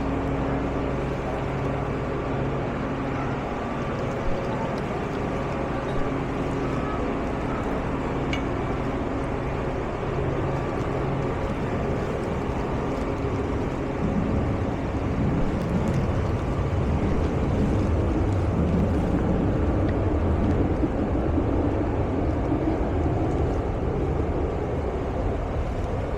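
Engine running steadily with a low hum; from about 14 seconds in a louder, rougher rushing noise builds over it.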